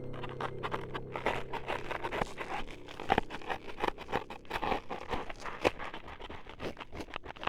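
Close-miked ASMR sound effects: dense, irregular scraping and scratching with many sharp clicks and crunches, part of an 'ears being chopped up' sequence.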